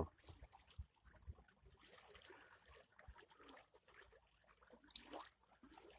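Near silence: faint outdoor background with a few soft clicks and a brief faint sound about five seconds in.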